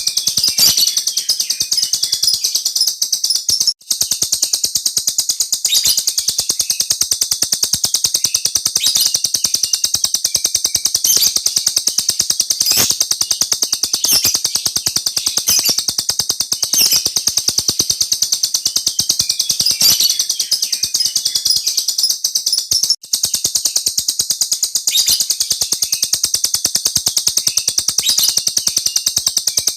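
Small songbird singing a long, continuous rolling trill of very fast, high-pitched notes, broken only by two brief pauses, about four seconds in and near the middle.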